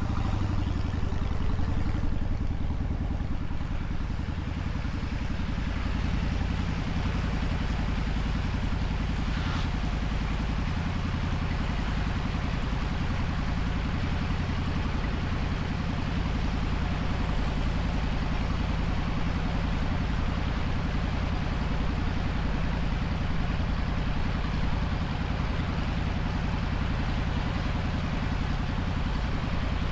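Motorcycle engine running steadily while being ridden, a low steady rumble with no marked revving.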